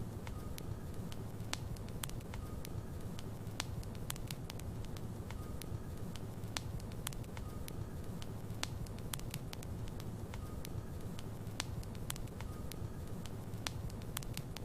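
Logs burning in a fireplace: a steady low rumble of flame with frequent, irregular sharp crackles and pops from the burning wood.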